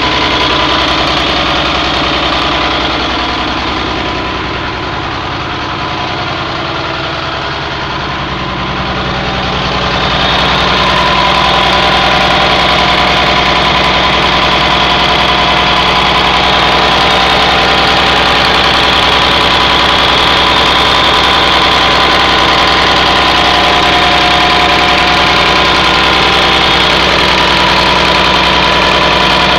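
Caterpillar diesel engine of a Freightliner school bus idling steadily. It grows louder about ten seconds in and stays steady after.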